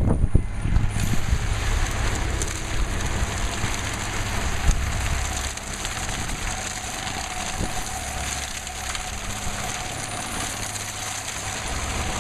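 Stump grinder running, its engine and cutting wheel chewing through a stump in a steady mix of low rumble and crackling noise. It cuts off suddenly at the end.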